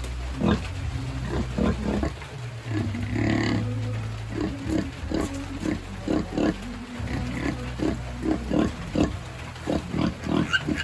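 Pigs grunting, short grunts repeated about twice a second, over a steady low hum.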